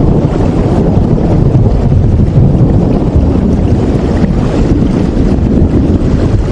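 Steady rain, a dense, even wash of noise that is heaviest in the low end.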